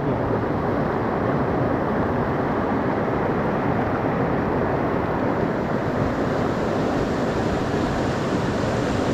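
Mountain stream rushing over rocks: a steady, loud water roar with no breaks.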